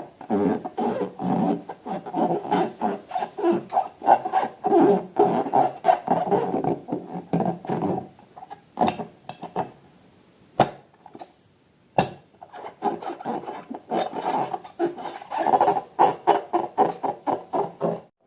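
Rapid rubbing, rasping strokes that pause for a few seconds midway, broken by two sharp clicks, then resume.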